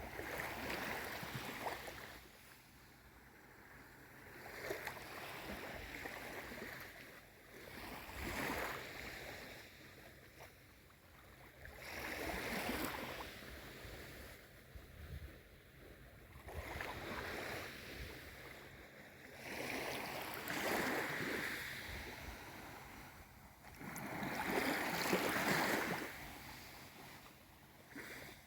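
Small waves of a calm sea washing in and drawing back, each swell of hissing water rising and fading about every four seconds.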